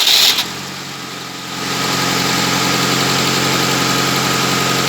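UMZ-4216 inline-four petrol engine catching on its first start, with a new camshaft gear fitted. It grows louder about a second and a half in, then idles steadily with no knock heard.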